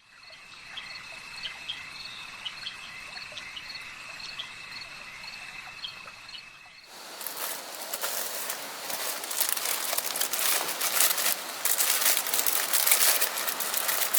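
Night insects calling: a steady high trill with short chirps repeating over it. About seven seconds in it cuts abruptly to louder, dense rain falling.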